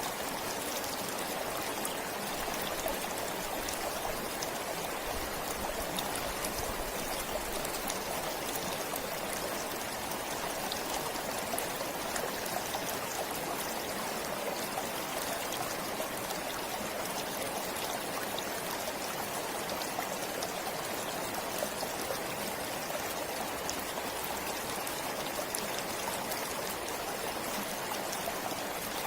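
Forest stream running steadily, an even rush of flowing water with fine trickles and splashes.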